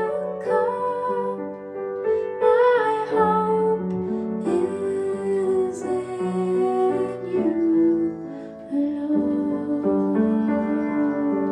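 A gentle song: a woman singing over piano accompaniment, with long held notes.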